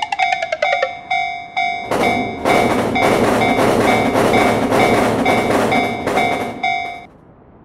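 Railroad crossing warning bell dinging in a steady repeated pattern, with a falling run of tones in the first second. A train passes from about two seconds in, and the bell and the train noise stop together near the end.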